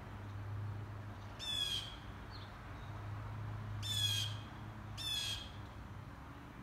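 A bird gives three short calls, each under half a second: about a second and a half in, again near four seconds, and just after five seconds. A steady low hum runs underneath.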